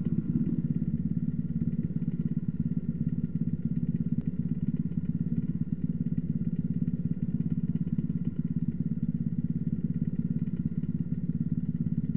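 Off-road motorcycle engine running at a steady speed, a fast, even pulsing with no revving.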